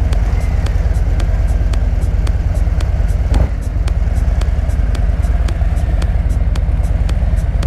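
2024 Harley-Davidson Road Glide's Milwaukee-Eight 117 V-twin idling steadily with an even, rapid pulse. There is one brief louder thump about three and a half seconds in.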